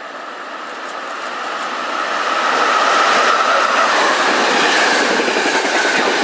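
Passenger train passing through the station at speed on the nearest track, wheels running on the rails. The rushing noise builds as it approaches over the first few seconds, then holds steady while the coaches go by.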